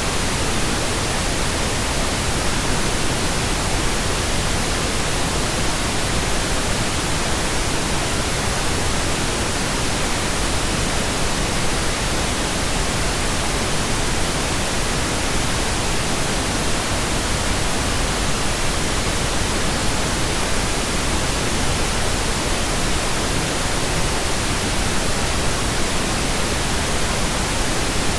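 Steady pink noise generated in software: an even hiss with no changes or events.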